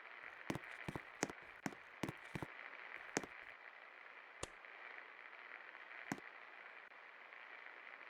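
1979 Jamuna 56-inch ceiling fan running with a faint steady hiss, broken by irregular sharp clicks, most of them in the first couple of seconds.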